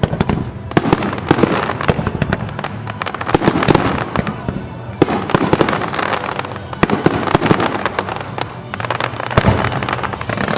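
Aerial fireworks shells bursting in a dense, rapid barrage, with many sharp reports and crackle one after another.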